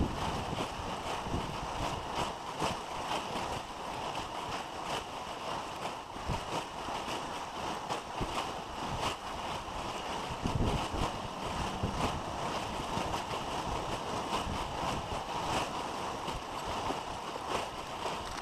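Steady rushing of water and wind, with many small crackles and no clear single event.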